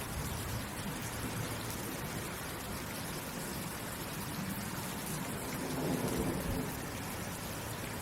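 Steady rain falling. About six seconds in, a low rumble swells and fades over about a second.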